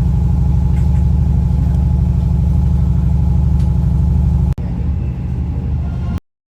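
A diesel train's engine idling with a steady low throb. The sound breaks off for an instant about four and a half seconds in, resumes, then cuts off abruptly to silence just before the end.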